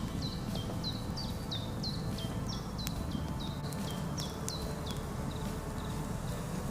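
A bird calling repeatedly in short, high notes that sweep downward, about two a second, over a steady low outdoor rumble.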